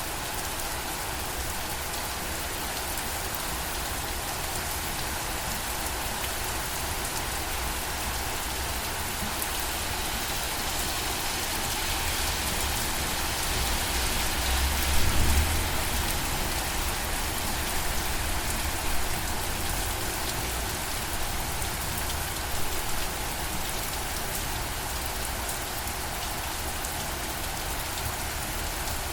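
Steady rain falling, a continuous hiss of drops on surfaces, swelling in intensity through the middle with a brief deep rumble about halfway through.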